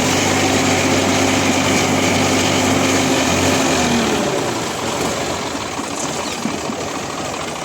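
Tractor diesel engine running with a steady drone that fades and eases off about four seconds in.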